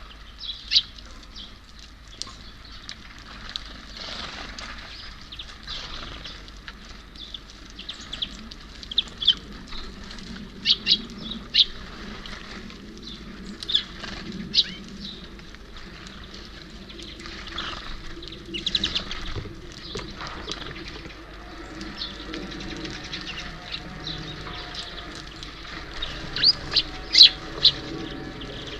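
Small birds at a feeder giving short, sharp chirps, scattered through and bunched together near the end, with occasional flutters of wings.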